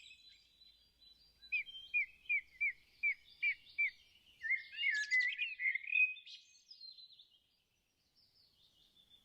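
Small songbird singing: a run of about seven short, evenly repeated notes, then a quicker jumble of chirps and twitters that fades out about seven seconds in.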